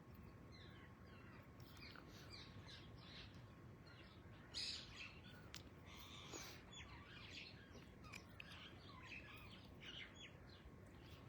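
A flock of parrots calling faintly, with many short, falling chirps overlapping throughout and one louder call about four and a half seconds in.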